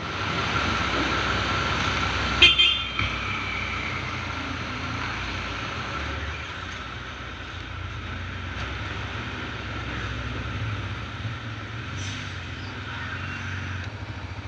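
Vehicle engines running with a steady high whine over them, and a short horn toot about two and a half seconds in.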